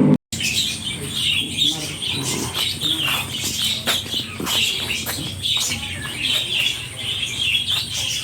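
Many small birds chirping continuously, with a few scattered sharp clicks.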